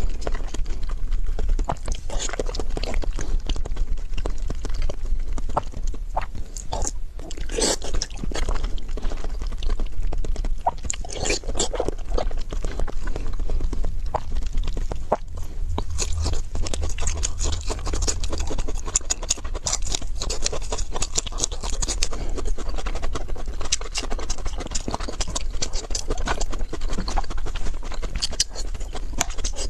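Close-up eating sounds: a person chewing food, with many short wet clicks and occasional crunches, over a steady low hum.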